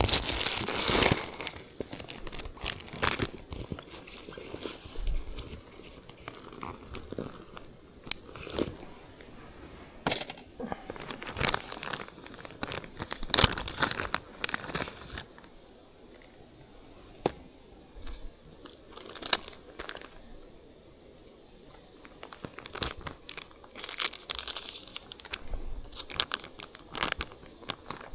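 Irregular crinkling and rustling of handled material, in short uneven bursts, easing off for several seconds a little past the middle before picking up again.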